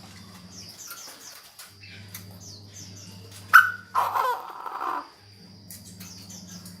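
Chinese francolin calling once, a loud harsh call of about a second and a half near the middle, over a steady high insect trill and a low hum.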